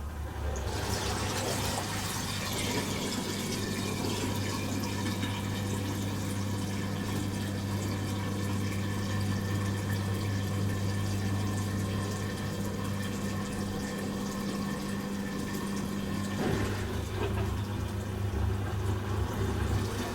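Bosch Serie 4 SMS46MW05G dishwasher running: a pump starts humming steadily about half a second in, and water rushes and splashes inside the tub.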